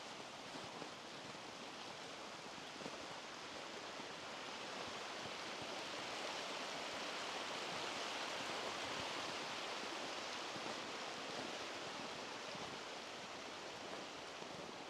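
Running water making a steady rush that swells around the middle and eases off toward the end.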